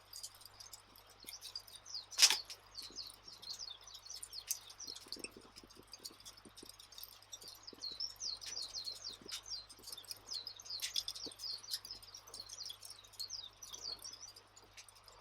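Campfire crackling: scattered sharp pops, with one loud pop about two seconds in, over a dense run of high chirps.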